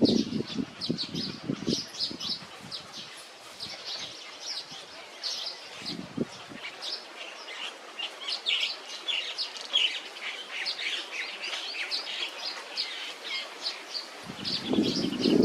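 Small songbirds chirping: a dense, continuous run of short, high notes. Bursts of low-pitched noise come at the start, briefly about six seconds in, and again near the end.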